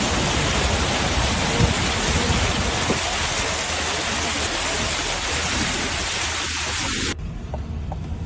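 Loud, steady rush of water with no distinct tones, cutting off abruptly about seven seconds in. After the cut comes a quieter low hum with faint ticks about three times a second.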